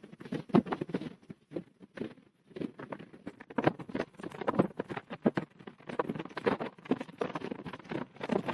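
Wind-blown sand pattering in quick, irregular ticks and taps, with short lulls between gusts.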